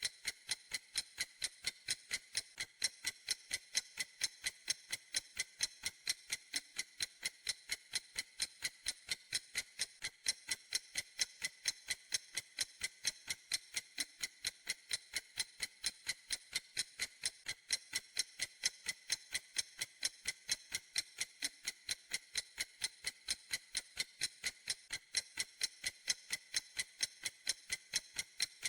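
Clock ticking steadily: a fast, even run of crisp, high-pitched ticks, several a second.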